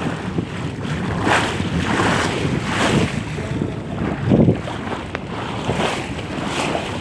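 Wind buffeting the microphone in uneven gusts, over water washing and slapping against the hull of a small boat under way.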